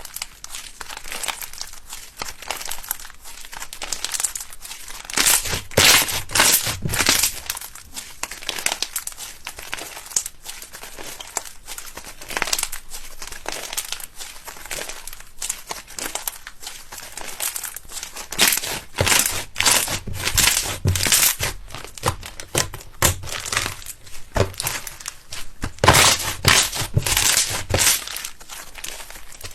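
Slime being squeezed and stretched, a steady run of sticky crackles and pops. The crackling grows louder about five seconds in, again around twenty seconds, and near the end.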